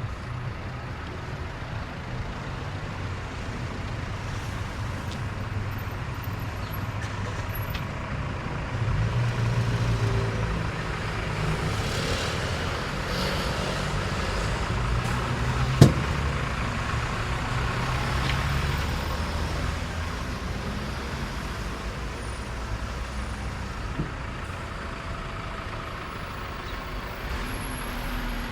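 Road traffic passing close by: vehicle engines and tyres rumbling past, swelling twice as heavier vehicles go by, with one sharp knock about sixteen seconds in.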